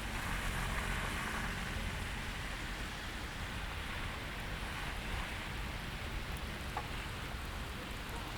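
Steady rain falling and pattering on surfaces, a continuous even hiss. A low rumble fades out over the first second or two.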